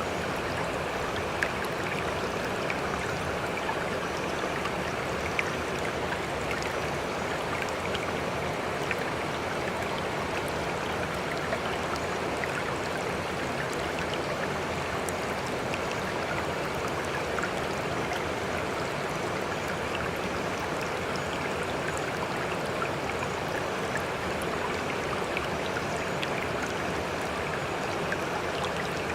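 Sea water rushing steadily, with scattered small splashes and drips.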